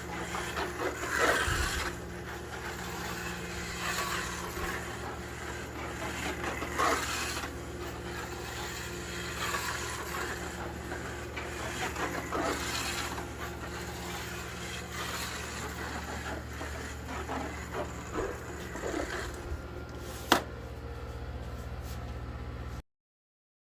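1/24-scale slot car with an NSR racing motor running on a track: a steady motor hum under uneven scraping and rubbing from the car on the track, with one sharp click near the end. The sound cuts off abruptly just before the end.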